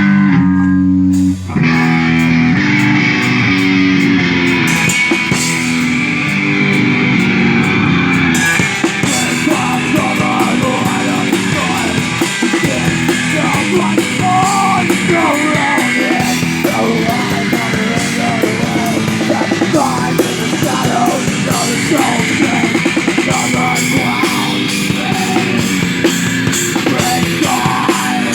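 Loud rock song played on guitar and drum kit, with a short break about a second and a half in before the band comes back in.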